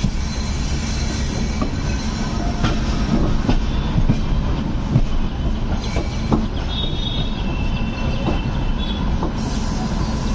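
Passenger train rolling slowly on the rails, heard from the open coach door: a steady rumble with irregular wheel clacks over rail joints and points. A brief high wheel squeal comes about seven seconds in.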